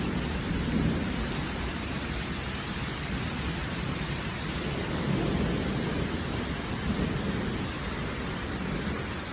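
Heavy rain pouring steadily in a hurricane thunderstorm, with low rumbles of thunder swelling and fading a few times.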